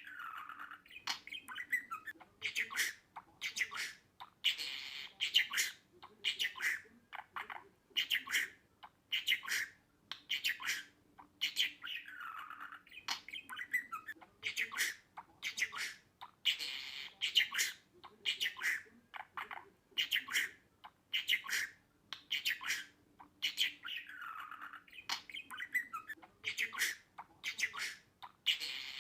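Budgerigar chattering: quick chirps, warbles and harsh squawks in close succession. The same sequence of calls repeats about every twelve seconds.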